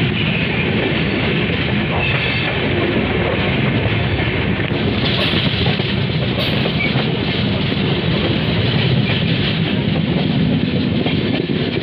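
Passenger train coach running along the track, heard from its open doorway: a steady rumble and clatter of steel wheels on the rails.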